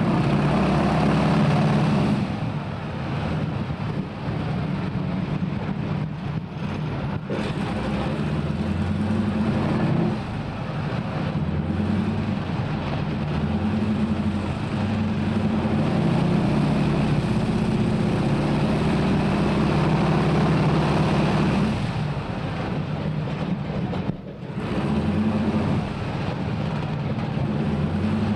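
A North American AT-6 Texan taxiing, heard from inside the cockpit: its Pratt & Whitney R-1340 nine-cylinder radial engine runs at low power with a deep, throbbing rumble. The engine note rises and falls a few times as the throttle is worked.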